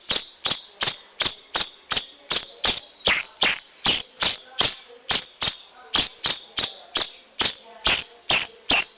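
Cucak rawis (bayeman) songbird singing a fast, evenly spaced run of sharp, high notes, about two to three a second.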